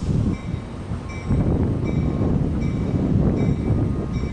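Caltrain commuter train with gallery cars rolling into a station, a steady low rumble, with a bell dinging about once a second.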